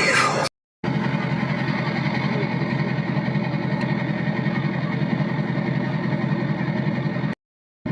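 Pickup truck engine idling steadily with a fast, even pulse. The tail of a rap song is heard in the first half-second before a cut.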